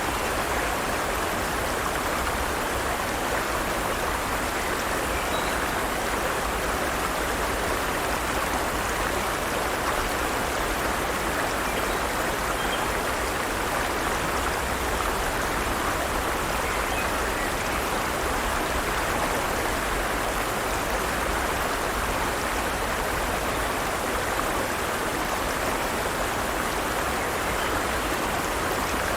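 Forest stream: water running steadily over rocks, an even rushing that does not change.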